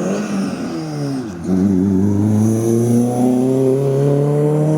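Race car engine accelerating hard: a quick gear change about a second and a half in, then the revs climb steadily and loudly.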